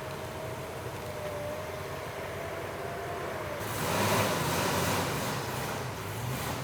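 Pickup truck driving on the road: a steady low rumble of engine and road noise with a faint humming whine, then a louder rush of noise from about four seconds in that eases off near the end.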